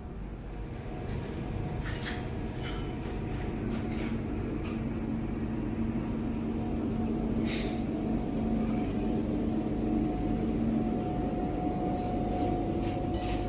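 Steady hum of ship's machinery with a couple of held tones, growing a little louder, and scattered light clicks and knocks.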